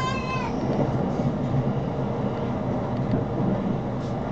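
Electric commuter train running at speed, heard from inside the carriage: a steady low hum and rumble of wheels on rail. In the first half-second a short high squeal falls in pitch.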